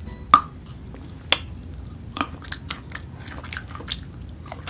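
Close-up chewing of crunchy unripe green mango: a sharp bite-crunch just after the start, then crisp crunches every second or so as the slices are chewed.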